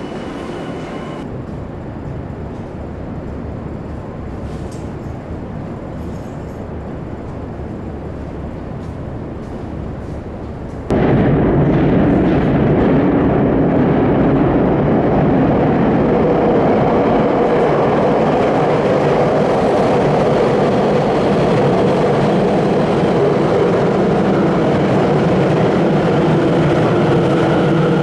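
Electric commuter train running in an underground station platform, a steady rumble and rail noise. About eleven seconds in it jumps abruptly much louder and fuller, as a train runs close past.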